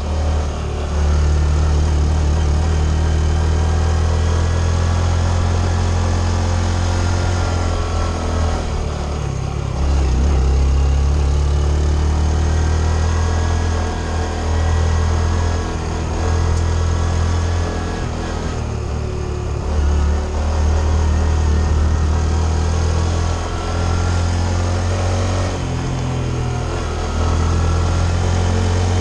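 Honda CT125 Trail 125's single-cylinder engine running steadily while being ridden. Its note dips and picks up again several times as the throttle is eased and reopened.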